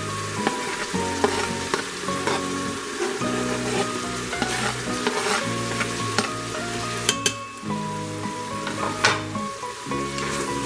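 Chopped onion and browned ground beef sizzling in the hot stainless inner pot of an Instant Pot, with scattered clicks and scrapes as a knife pushes the onion off a plastic cutting board, then a wooden spoon stirring it in.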